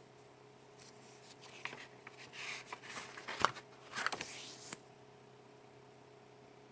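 Sketchbook paper pages being handled and turned: about four seconds of rustling with several sharp crinkles and taps, then it stops. A faint steady hum lies underneath.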